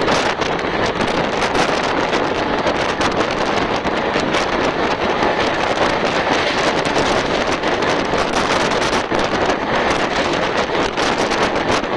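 Loud, steady rush of wind buffeting the microphone, mixed with the running noise of a fast express train.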